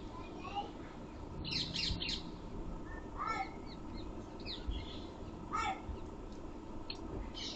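Birds calling: a run of short calls, each falling in pitch, every second or two, with a cluster of several about one and a half seconds in.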